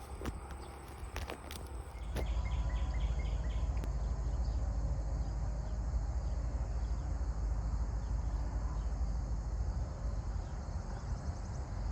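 A few light knocks, then a skid steer's engine starts running steadily from about two seconds in as a low rumble. Insects chirp faintly above it.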